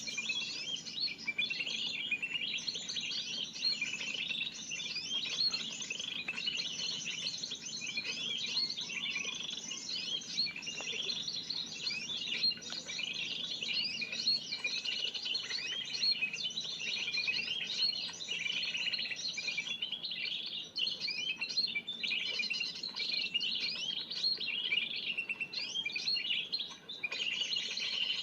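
Spiderhunter lure call: a busy, unbroken stream of rapid, high, overlapping chirps, the kind of call played to draw spiderhunters in for trapping.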